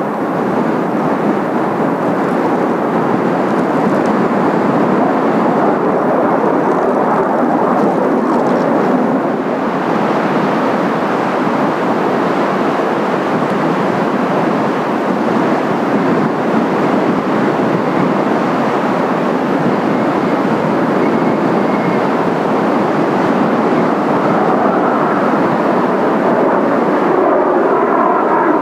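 Jet engine noise from Blue Impulse Kawasaki T-4 jet trainers just after takeoff, loud and steady. Near the end it takes on a wavering, phasing quality as a jet passes.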